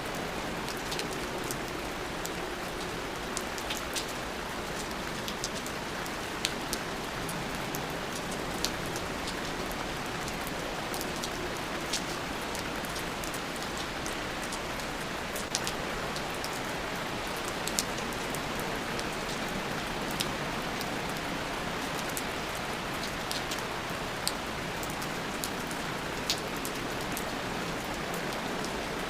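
Steady rain ambience: an even wash of rainfall with scattered close drops ticking sharply on a surface.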